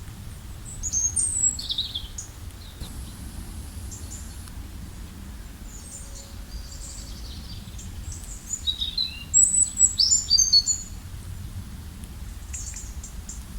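Songbirds chirping and trilling in short high phrases: a brief burst about a second in, then a busier, louder run of calls from about six to eleven seconds in, over a steady low background rumble.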